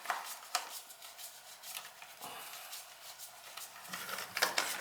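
Light metallic clicks and taps of hand tools and screws on an oil burner's housing as screws are worked loose, with a cluster of louder clinks about four seconds in.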